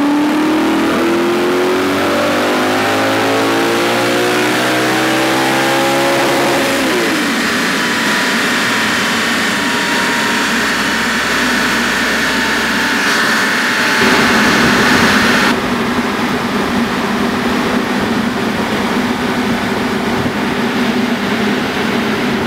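Audi R8's 4.2 V8 at full throttle on a chassis dyno: the revs climb steadily for about six and a half seconds in a power run, then the throttle closes and the revs drop quickly. A high whine follows as the car coasts down on the rollers, and a steadier lower hum runs on from about two thirds of the way in.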